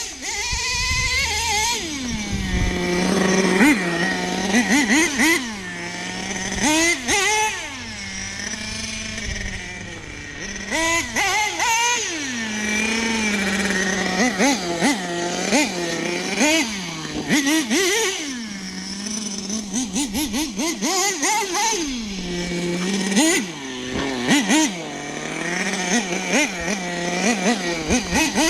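Nitro-fuelled .21 engine of an RC monster truck, a Team Associated MGT 3.0, being driven: it revs up sharply again and again under throttle and drops back to a steady high-pitched idle between bursts.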